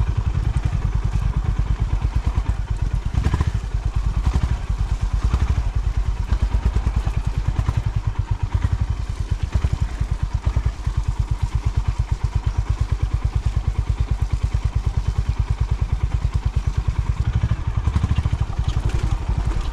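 Honda CB350's air-cooled single-cylinder engine running at steady revs while ridden, its exhaust giving an even beat of distinct firing pulses, with a few brief knocks and clatters over rough ground.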